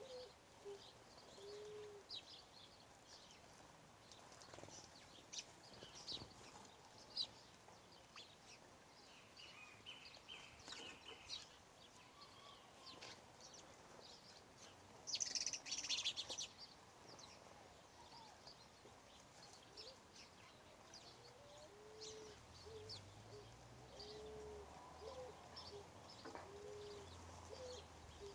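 Faint birdsong: a dove cooing in a slow series of short, low notes at the start and again through the last third, over scattered high chirps from small birds, with a brief dense burst of chirping just past the middle.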